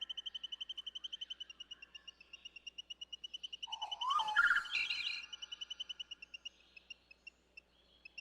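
Recorded birdsong: a fast, even trill of short high notes, about ten a second, with a louder flurry of other bird calls with sliding notes about four to five seconds in.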